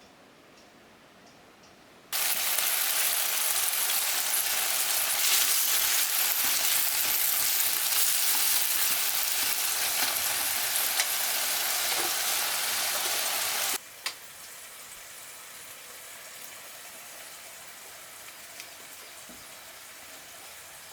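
Food frying in hot oil: a loud, steady sizzle starts suddenly about two seconds in, then drops abruptly to a quieter sizzle about two-thirds of the way through.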